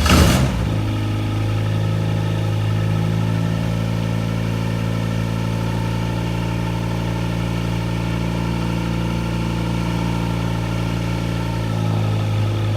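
Viking 110 aircraft engine, fitted with a new muffler, just after starting: a brief surge as it catches, then a steady idle. It grows slightly louder near the end.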